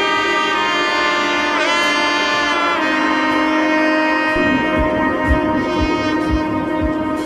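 Background music: a sustained brass- or saxophone-like melody line over held notes, with a regular low beat coming in a little past the middle.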